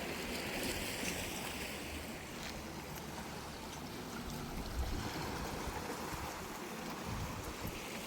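Steady wash of sea waves breaking on a beach.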